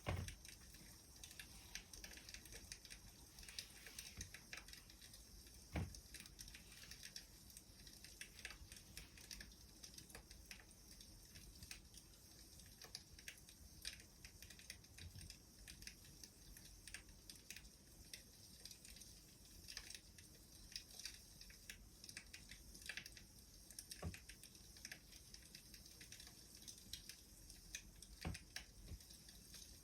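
Wood fire crackling faintly, with a steady scatter of small irregular clicks and a few louder pops: at the start, about six seconds in, and twice near the end.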